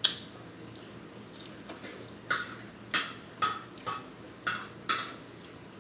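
Close-up eating sounds: about seven short, sharp mouth smacks and clicks, spaced irregularly, one right at the start and most in the second half.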